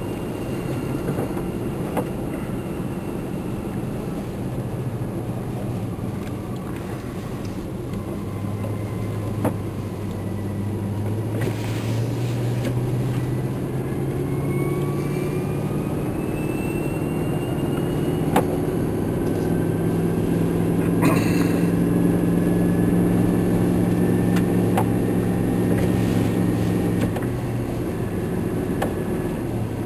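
Motor vehicle engine running while driving through snow, heard from inside the cabin. Its pitch rises as it picks up speed, holds, then eases off near the end, with a few scattered knocks.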